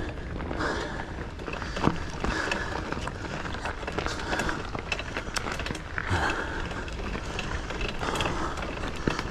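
Giant Fathom mountain bike riding over a loose dirt trail: steady tyre noise on loose soil with frequent clicks and rattles as the bike goes over bumps.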